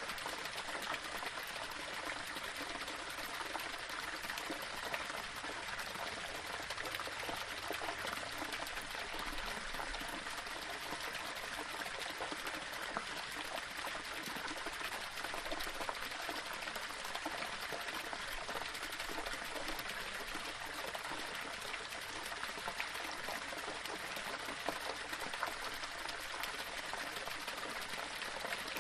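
Small waterfall splashing and trickling over stones, a steady even rush of running water with fine splashy detail.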